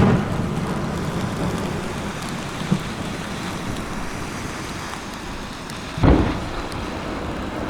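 Aerial fireworks shells bursting with deep booms, one at the very start and another about six seconds in, with a smaller pop near the middle and a steady rushing, crackling noise between the bursts.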